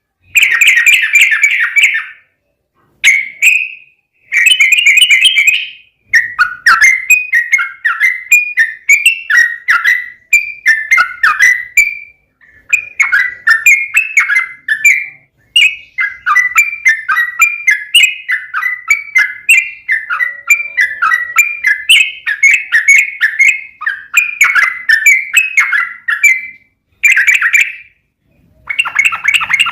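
Yellow-vented bulbul (trucukan) singing a long run of quick, bubbly chattering notes, phrase after phrase with only short pauses, a couple of seconds in and near the end.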